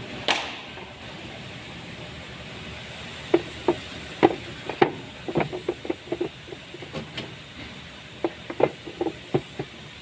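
A run of short, irregular clicks and knocks from an engine-bay air filter housing and filter being handled and fitted, over a steady hiss.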